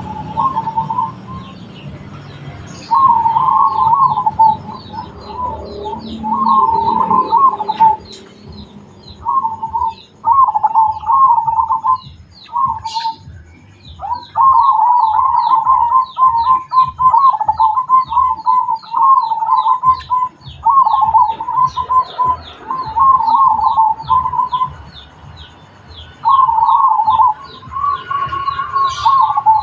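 Zebra dove (perkutut) singing its trilled cooing song: short runs of rapid coos repeated again and again with brief pauses, and one long unbroken run about a third of the way in. Faint, rapid high chirps from another bird sound behind it.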